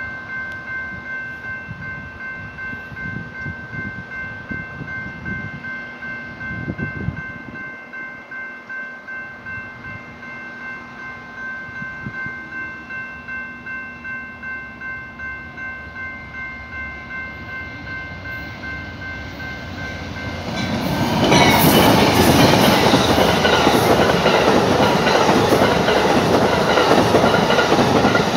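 Railroad crossing bell ringing in a steady pulsing rhythm while an Amtrak Southwest Chief passenger train approaches. About twenty seconds in, the train passes close by at speed, a loud rush of wheels and cars that drowns out the bell.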